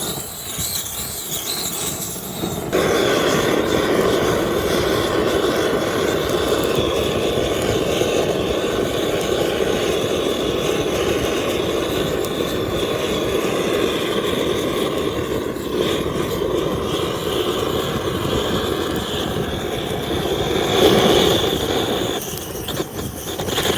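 Gas torch flame blowing steadily against firewood, a loud rushing hiss that steps up about three seconds in and swells briefly near the end.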